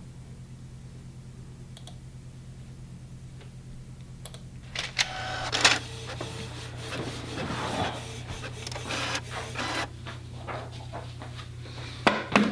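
A small office machine running in uneven bursts of mechanical rasping and clicking over a steady low hum, starting about five seconds in, with a few sharper clicks near the end.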